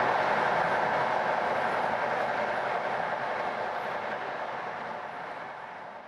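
Train wheels running on the rails with the steady singing rush of this stretch of track, gradually fading away. The uploader puts the unusual singing down to causes such as a differently worn railhead or slightly narrow gauge making the wheel flanges rub harder on the rails.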